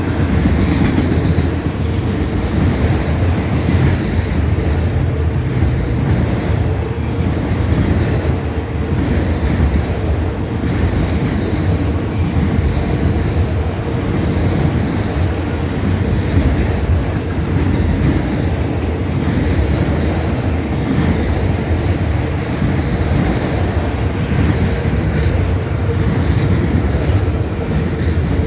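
Empty autorack freight cars rolling past in a loud, steady rumble, with wheels clicking over rail joints and a faint steady hum.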